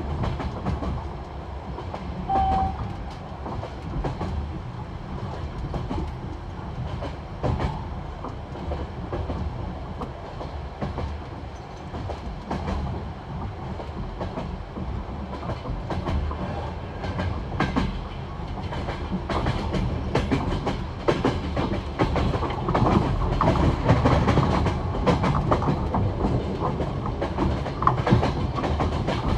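Passenger train wheels clattering over the joints of jointed (non-welded) rail at high speed, the classic clickety-clack of repeated knocks over a steady rumble. It grows louder about two-thirds of the way in.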